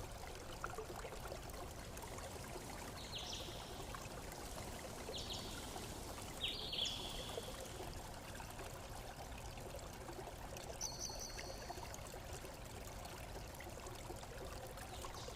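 Water trickling and pouring steadily as a toilet tank and its supply connection drain, with a few short high squeaks.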